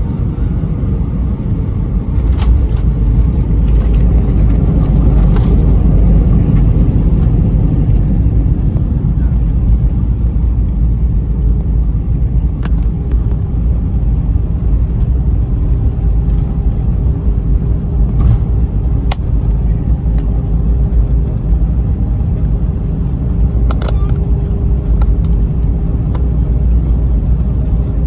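Airbus A320 cabin noise: a loud, steady low rumble of the airliner rolling on the ground after landing, stepping up about two seconds in. A steady hum comes in about halfway, with a few scattered clicks.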